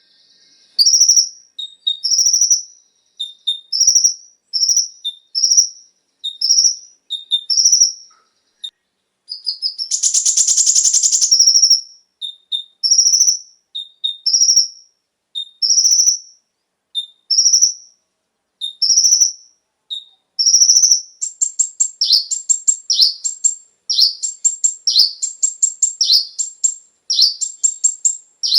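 Konin (kolibri ninja) sunbird singing: a string of short, high chirps repeated about once a second, a dense buzzy trill about ten seconds in, then quicker, fuller chirping phrases near the end.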